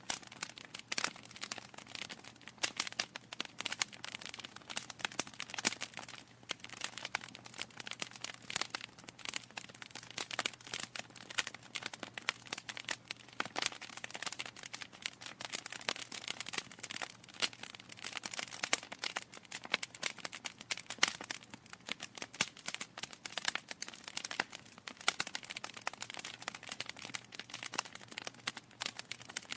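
Wood fire in a fireplace crackling steadily, with dense irregular pops and snaps from burning logs.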